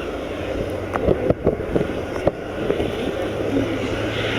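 Airbus A400M's four turboprop engines droning steadily at a distance, with wind buffeting the microphone and a few short knocks about one to two seconds in. The drone swells near the end as the aircraft comes closer.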